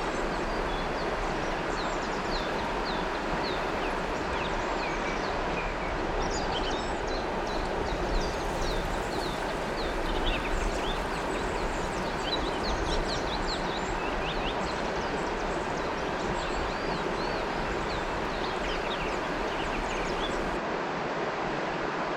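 River water flowing steadily, with many birds chirping over it in short, quick calls. A low rumble under the water stops near the end.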